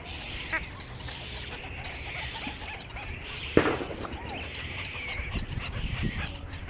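Many small birds chirping and chattering together without pause, with one sharp knock a little past halfway.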